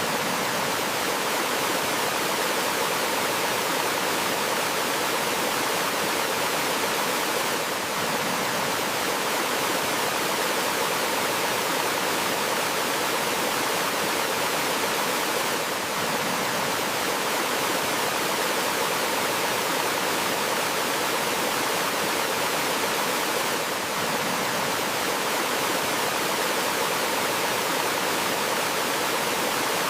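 Small waterfall on a forest stream, water running steadily with an even, unbroken rush.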